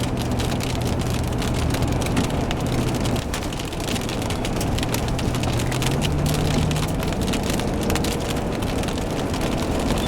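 Car engine and road noise heard from inside a moving vehicle, with many small ticks of rain hitting the body and windshield. The engine note drops about three seconds in, then climbs again around six seconds as the car speeds up.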